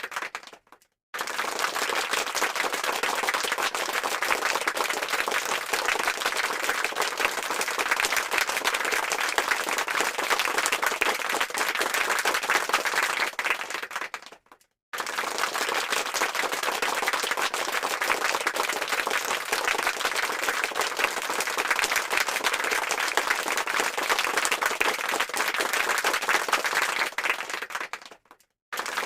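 Applause sound effect: many hands clapping densely. It fades out to a brief silence and starts again about halfway through, then fades out again near the end.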